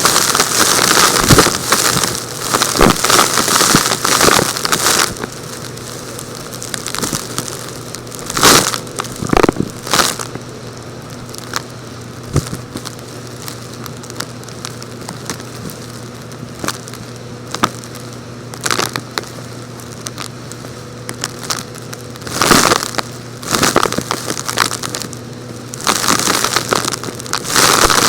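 Crumbly, rock-like material being crushed, crunching and crackling in dense spells for the first few seconds and again near the end. Between the spells come scattered single cracks over a steady low hum.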